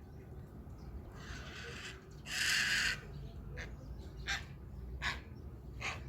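Grey heron giving a loud, harsh, rasping croak about two seconds in, after a softer rasp, followed by four short sharp bird calls about a second apart.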